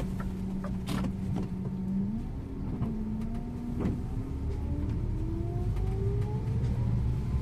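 Scania InterLink bus engine running steadily, then accelerating from about two seconds in, its pitch rising smoothly as the bus pulls away, with a couple of light clicks near the start.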